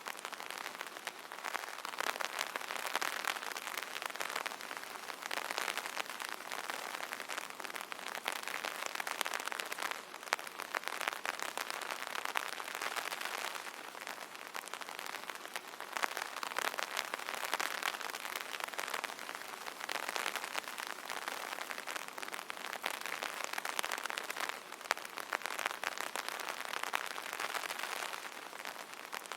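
Rain drumming on an umbrella canopy: a dense, steady patter of many small drop impacts, swelling and easing slightly every few seconds.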